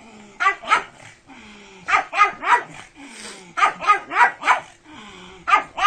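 A pug barking in quick runs of two to four sharp barks, with short pauses between the runs.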